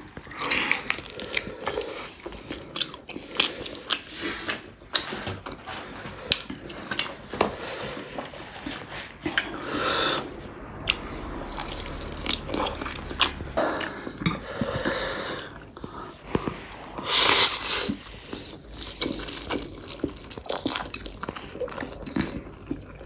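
Close-up sound of a person biting and chewing saucy meat off the bone, with wet smacking and many short mouth clicks. Two louder rushes of noise come about ten and seventeen seconds in.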